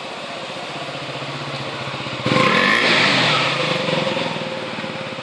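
KTM Duke 125's single-cylinder four-stroke engine running at low revs, then about two seconds in it revs up sharply, the pitch climbing and falling back as the throttle is eased off.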